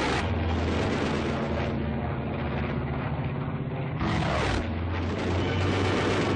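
Piston-engined fighter aircraft in a dogfight: a steady, loud engine drone with two louder rushing surges, one at the start and one about four seconds in, on an old, muffled film soundtrack.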